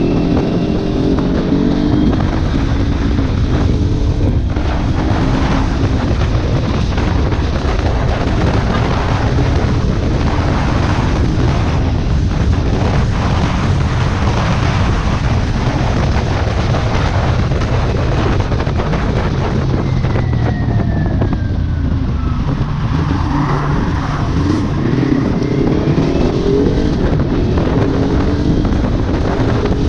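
Kawasaki Ninja 400 parallel-twin engine through an aftermarket exhaust, riding at speed under heavy wind noise on the microphone. The engine pitch climbs as it revs up near the start and again in the last few seconds.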